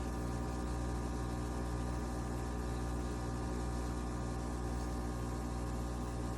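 Coffee machine running with a steady hum and a hiss, holding level and then cutting off sharply just after the end.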